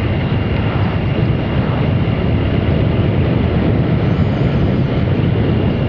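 Triumph Sprint RS motorcycle being ridden: a steady rush of wind and engine noise on the microphone, dense and low, with no change in pace.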